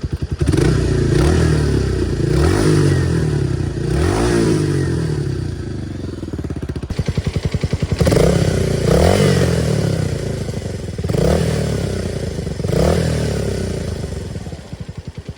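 Kawasaki 250TR's air-cooled single-cylinder four-stroke engine, running after a carburettor overhaul, revved up and back down about seven times from a steady idle, then settling back to idle near the end.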